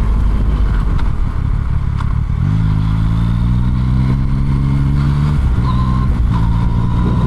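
Motorcycle engine running under way with wind and road noise. About two and a half seconds in, the engine note picks up and then holds steady, with a brief dip a little after five seconds.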